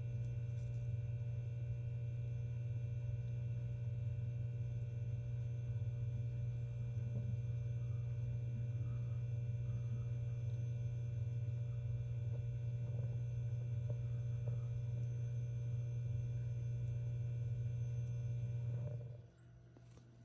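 A steady low hum with fainter steady higher tones above it, which cuts off suddenly near the end.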